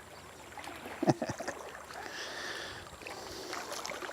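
Water sloshing and lapping against shoreline rocks, with a short loud thump about a second in.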